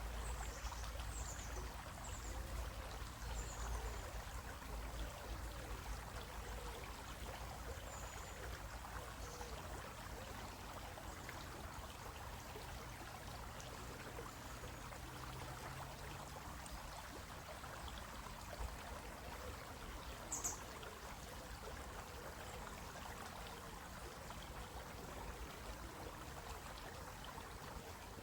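Water of a small stream running over rocks: a steady, even babbling and trickling. A few faint high chirps sound in the first few seconds, and a short sharp high sound comes about two-thirds of the way through.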